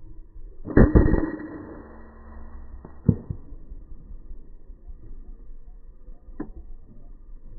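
Air rifle shot about a second in, loud and sudden, dying away over about a second. A single sharp knock follows about two seconds later, then a faint click near the end.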